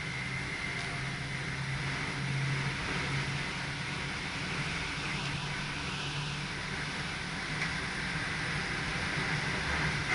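SGM Sprinter electric multiple unit running along the line, heard from the driver's cab: a steady low hum with rolling noise and a faint high whine.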